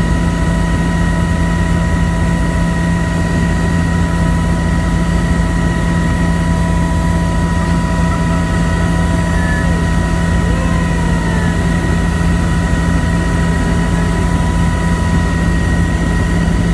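Helicopter in flight heard from on board: a loud, steady drone of rotor and engine with a strong low hum and several steady high tones over it.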